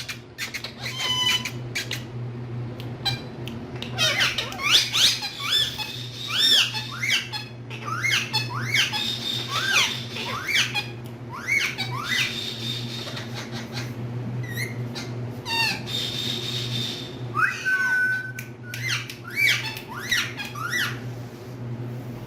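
Green parrots squawking and chirping in quick runs of short rising and falling calls, with pauses between the runs. A steady low hum runs underneath.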